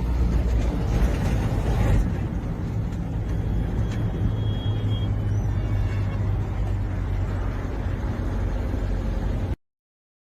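Steady engine and road rumble of a motor vehicle driving. It cuts off suddenly near the end.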